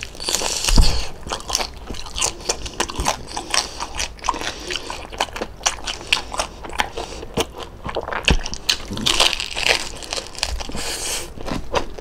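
Close-up crunching and chewing of crispy lechon kawali (deep-fried pork belly), a dense run of many sharp crunches with a few heavier bites.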